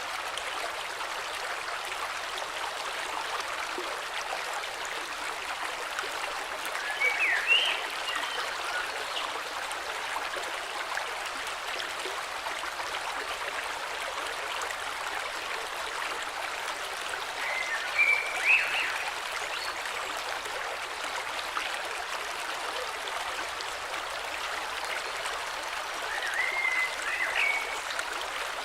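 Steady rush of a flowing river, with a bird calling briefly three times, about ten seconds apart.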